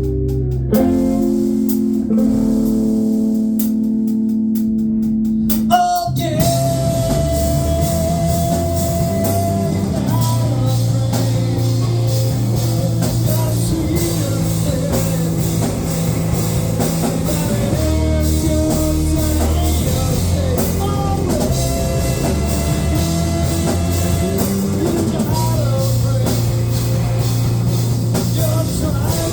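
Rock band rehearsing: held, sustained chords for about the first six seconds, then the full band comes in with drum kit, electric guitar and bass and plays on steadily.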